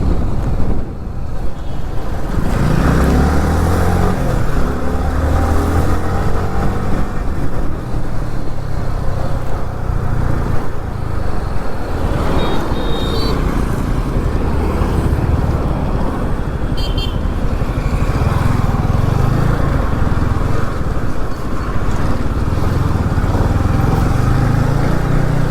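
Motorcycle engine running on the road, revving up through the gears a few seconds in, with steady wind and traffic noise. About halfway through come two short horn toots a few seconds apart.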